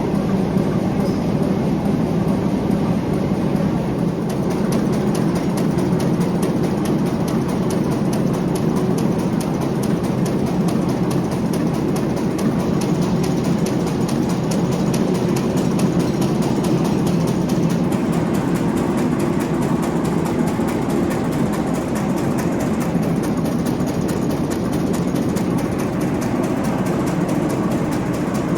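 Large 800-horsepower six-cylinder Crossley stationary diesel engine running steadily, a deep even beat of firing strokes.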